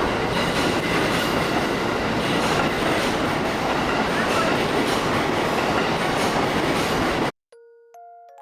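JR 185-series electric multiple unit running out of the station, a steady rumble of wheels and motors with faint regular clicks from the rails. It cuts off suddenly about seven seconds in, and a few soft chime-like music notes follow.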